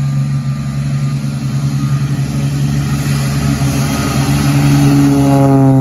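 Light aircraft's piston engine running at high power, a loud steady drone whose pitch drops a little near the end.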